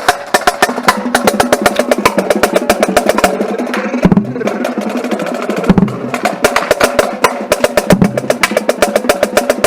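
Marching drumline playing a cadence: rapid, dense snare strokes with deeper drum hits every couple of seconds.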